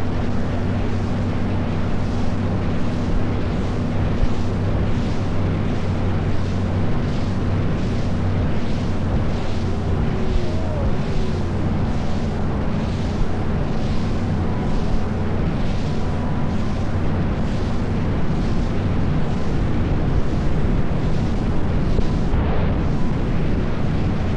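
A small tour boat's engine running steadily at cruising speed: a constant low hum under a loud rushing noise that pulses a little under twice a second.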